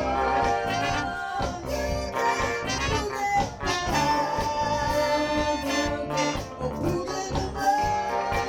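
Live soul-funk band playing an instrumental stretch: a horn section of saxophone, trombone and trumpet plays held notes over drums, bass guitar and keyboard.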